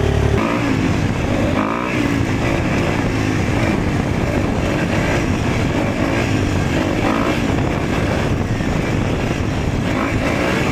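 Dirt bike engine running under way, its revs rising and falling.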